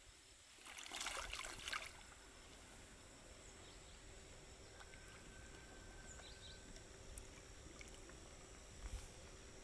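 A brief rush of water lasting about a second, near the start, then faint steady background noise.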